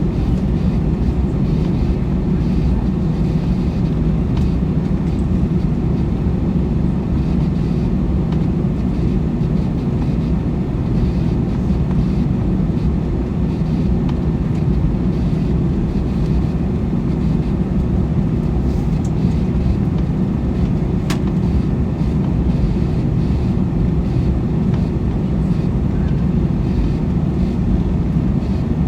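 Steady cabin noise inside an Airbus A321 taxiing: a low rumble of the jet engines and the rolling aircraft, even in level throughout, with one sharp click about two-thirds of the way through.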